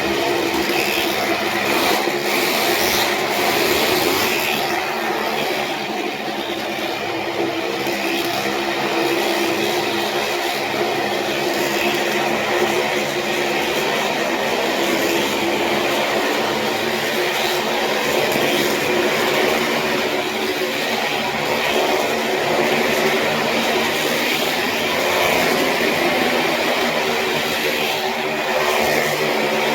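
Stunt motorcycle and car engines running without a break, a dense steady drone with a steady hum.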